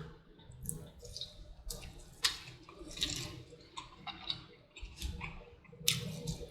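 Close-miked chewing: irregular wet mouth clicks and smacks of someone eating.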